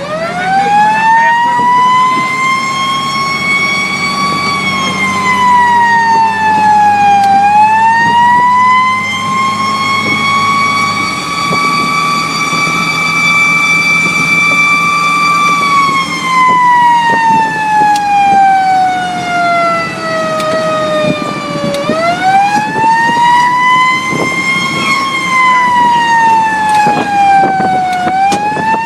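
Fire engine siren wailing in long, uneven sweeps: the pitch winds up quickly, holds, then falls away slowly, about four times. A steady low drone runs underneath and stops about eleven seconds in.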